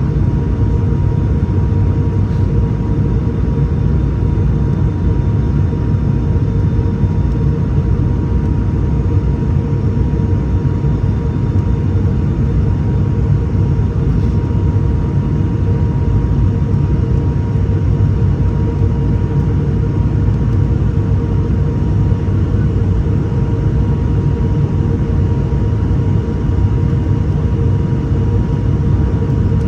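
Steady drone of an ATR 72-600's Pratt & Whitney PW127 turboprop engines and propellers, heard inside the passenger cabin. It is a low rumble with an even hum of propeller tones over it.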